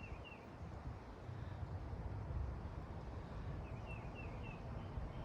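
A small bird chirping a few quick notes twice, once right at the start and again about four seconds in, over a steady low rumble.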